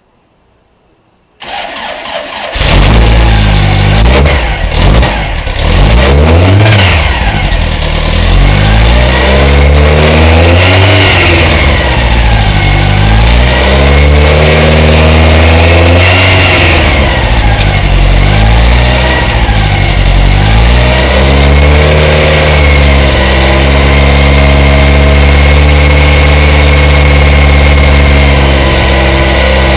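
Newly built VW engine started on the starter motor, catching about two and a half seconds in, then revved up and down several times before settling into a steady idle, its first run-up after the build.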